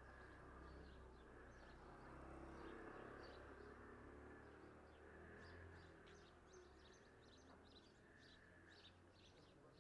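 Faint outdoor ambience: small birds chirping in many short, quick calls throughout, over a low steady rumble.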